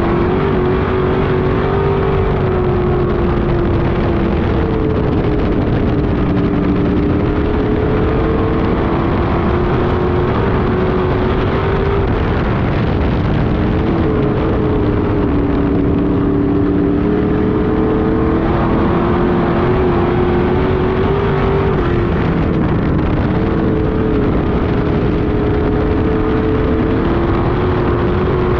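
Street stock race car engine at racing speed, loud and continuous, its pitch climbing slowly and then dropping back about every eight seconds, three times over.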